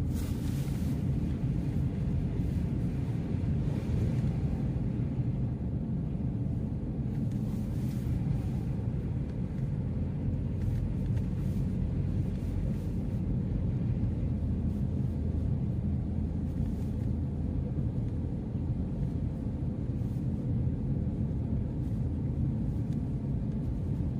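Steady low rumble of a car driving along a road, road and engine noise heard from inside the cabin.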